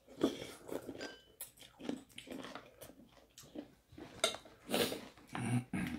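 People chewing mouthfuls of papaya salad, with irregular spoon-on-dish clinks and small wet mouth noises.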